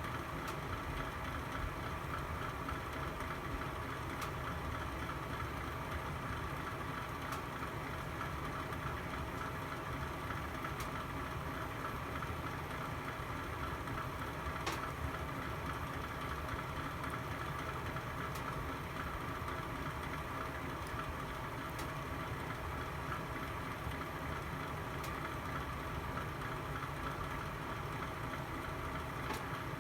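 Log fire burning in a fireplace: a steady low rumble of flames with scattered sharp crackles, the loudest about halfway through.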